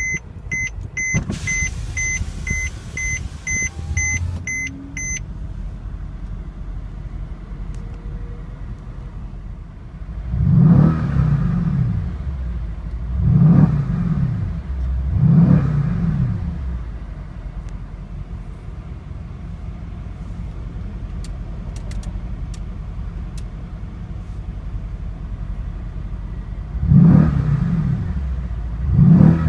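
Mercedes-AMG E63 S 5.5-litre twin-turbo V8 idling and being revved: three quick blips about ten to sixteen seconds in and two more near the end, each rising and falling in pitch. The car's warning chime beeps about ten times during the first five seconds.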